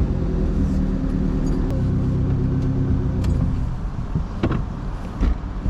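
Car engine running at low speed and pulling away, then easing off about two-thirds of the way through. A couple of short knocks follow near the end.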